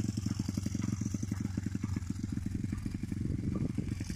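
A 125 cc pit bike's single-cylinder engine running at low, steady revs, its firing pulses coming in a quick, even beat.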